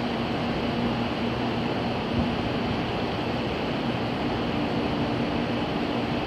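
Steady mechanical hum of a standing limited express train's onboard equipment running while the train is readied for service, with a faint low drone held throughout.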